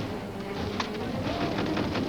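Film soundtrack: music with bird calls over it, and a sharp click or crack a little under a second in.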